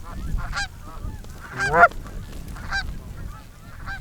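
A flock of geese honking as they come in to land, many overlapping honks with one loud close honk a little under two seconds in.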